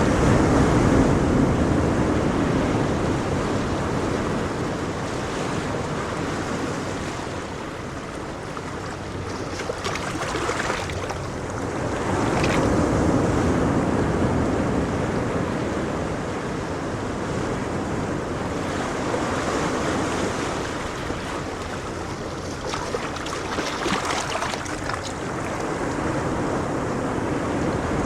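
Ocean waves breaking and washing on a shore, the surf swelling and easing every several seconds, with some wind.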